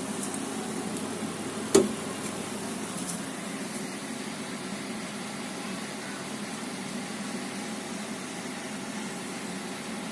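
Electric fans on a homemade Bullerjan-style convection stove running with a steady, fairly loud hum. A single sharp click comes a little under two seconds in.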